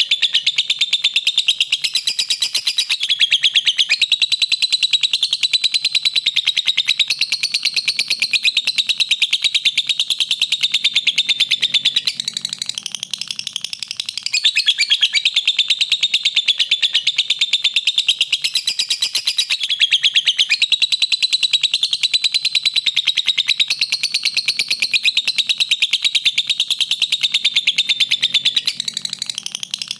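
Lovebird song: a continuous, rapid, high-pitched chattering trill of chirps, easing off briefly about twelve seconds in and again near the end.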